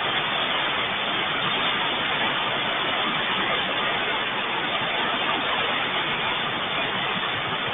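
Steady rain, an even unbroken hiss with no thunder or other sudden sounds.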